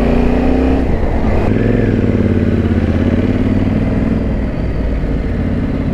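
Yamaha Ténéré 700's 689 cc parallel-twin engine running on the road, its note rising slightly and then dropping about a second in before settling into a steadier, lower note.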